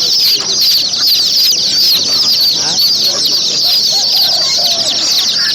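Many domestic chicks peeping at once: a dense, continuous chorus of high, overlapping chirps.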